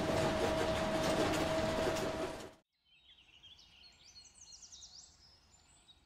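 School bus running, a steady noise with a constant hum, that cuts off about two and a half seconds in. Faint bird chirps follow.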